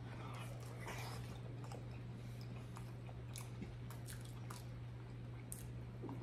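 Quiet close-up chewing of a sauce-coated boiled potato: soft, scattered wet mouth clicks and smacks over a steady low hum.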